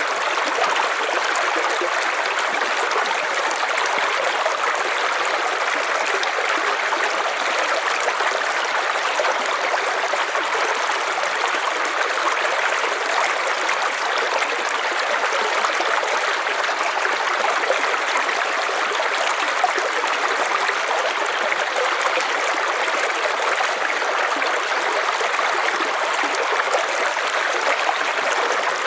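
River water flowing, a steady even rush of running water with no changes.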